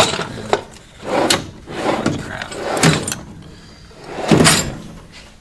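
Tool chest drawers sliding open and shut, a few separate noisy strokes a second or so apart.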